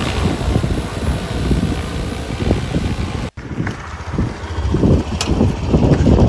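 Strong wind buffeting the microphone: gusty low rumbling under a rushing hiss. The sound cuts out abruptly a little over three seconds in, then the low gusting goes on without most of the hiss.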